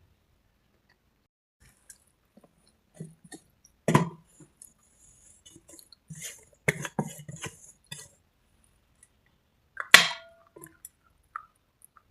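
Hard cubes and red slate paste being bitten and crunched close to the microphone. There is a sharp loud bite about four seconds in, a run of crunching chews around seven seconds, and another loud snapping bite near ten seconds.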